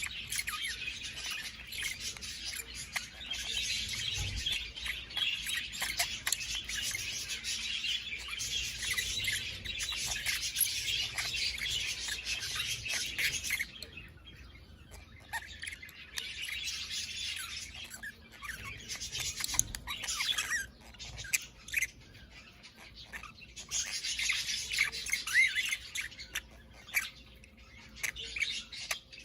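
Budgerigars warbling and chirping in quick, busy chatter. It runs steadily for roughly the first half, then comes in shorter bursts with quieter gaps between.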